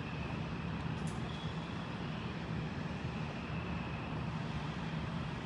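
Steady low rumble of distant jet airliner engines, with a faint high whine held above it.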